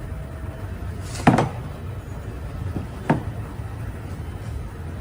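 Two sharp knocks, the first louder and briefly ringing, with a faint tap just before the second, as metal brake-caliper parts (lever and mechanism) are handled and set against the housing or bench, over a steady low workshop hum.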